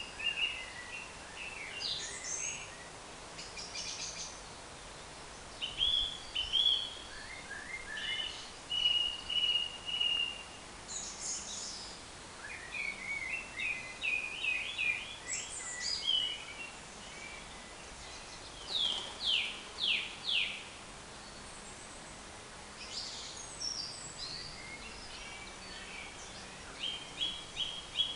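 Birdsong: songbirds singing short, varied phrases of clear whistles, trills and chirps, with a rapid run of notes about halfway through and four quick falling notes about two-thirds of the way in.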